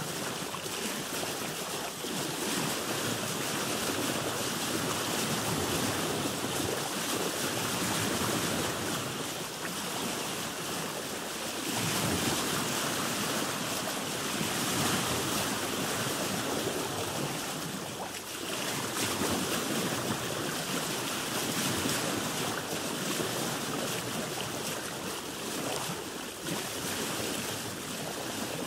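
Sea water washing and splashing against a boat's hull, swelling and easing every few seconds, with wind on the microphone.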